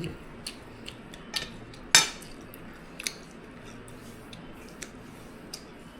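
Eating utensils clicking and clinking against plates and bowls in short scattered taps, the loudest about two seconds in.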